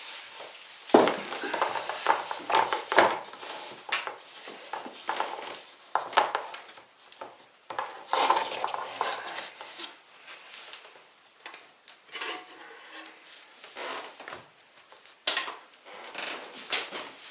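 Kitchen clatter: pots, dishes and metal utensils knocked, set down and scraped in irregular bursts, with some stirring.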